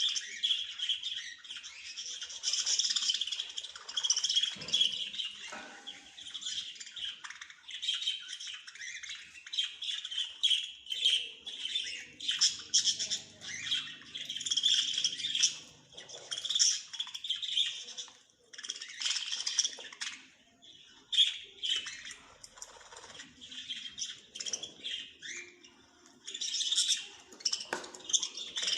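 Small birds chirping and twittering, many quick high calls overlapping with only brief pauses.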